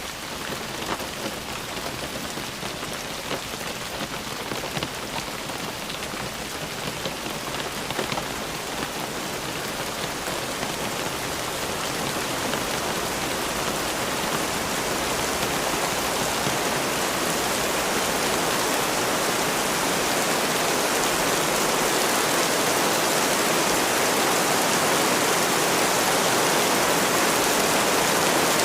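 Steady rain falling, with single drops heard at first. It grows gradually louder and denser into a heavy downpour.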